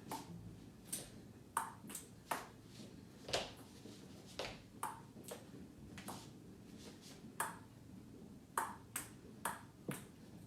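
An irregular series of light, sharp taps, about two a second, each with a brief ring.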